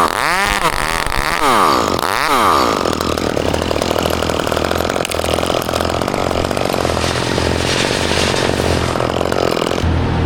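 Chainsaw revving up and down a few times, then running steadily at high speed. Near the end it gives way abruptly to a lower, steadier engine hum.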